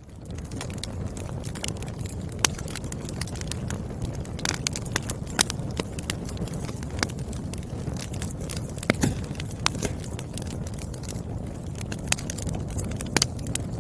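Wood fire crackling: irregular sharp pops and snaps of burning firewood over a steady low rumble of flames, a few pops much louder than the rest. The sound fades in at the very start.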